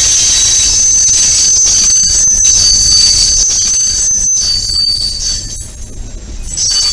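Freight train of tank cars and covered hoppers rolling slowly past. Its wheels squeal steadily on the rails over a low rumble, with scattered clicks. The squeal eases off briefly near the end.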